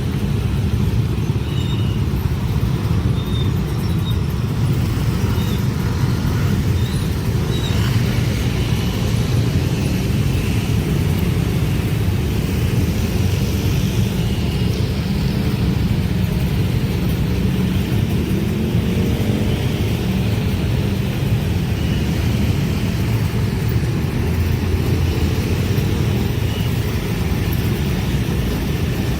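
A train rolling past, a steady low rumble that holds without rising or fading.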